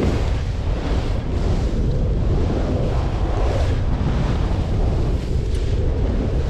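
Heavy wind buffeting the microphone, a steady low rumbling rush.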